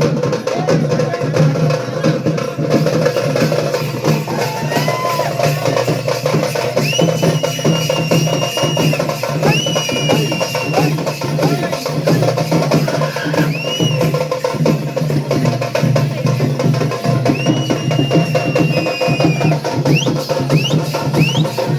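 Festival drumming with music: a fast, dense percussion rhythm over a steady low drone. High held whistling tones of about a second each start about seven seconds in and come several times, with short rising chirps near the end.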